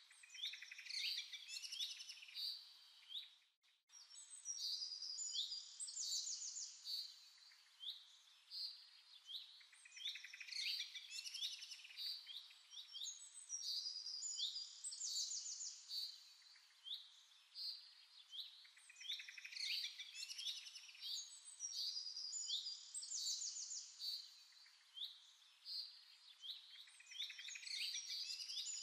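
Birdsong: quick chirps, down-sweeping notes and fast trills in phrases a few seconds long that repeat with short pauses, with a brief drop-out about three and a half seconds in.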